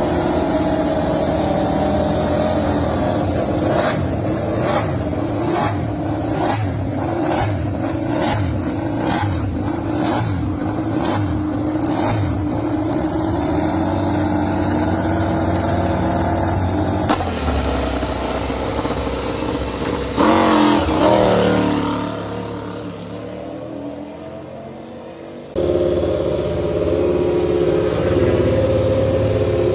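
MotoGP racing motorcycle engines running at high revs, with a run of sharp regular pulses about one and a half a second in the first half. After an abrupt cut a bike's engine sweeps up and down in pitch as it goes by, the sound drops away, then another abrupt cut brings back steady engine noise.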